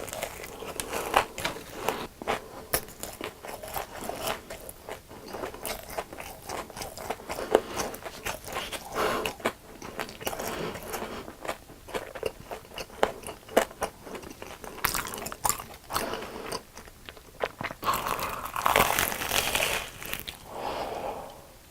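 Close-miked biting and chewing of crisp deep-fried food, a steady run of sharp crunches and crackles with a denser, louder stretch of crunching near the end.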